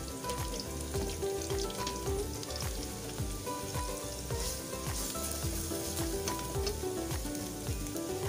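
Onions and tomato puree frying in palm oil in a pot, sizzling steadily as they are stirred, with background music and a steady beat underneath.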